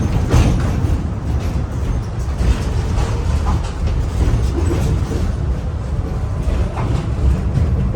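Tram running along its rails, a steady low rumble with a sharp knock right at the start and lighter clicks from the wheels and car body.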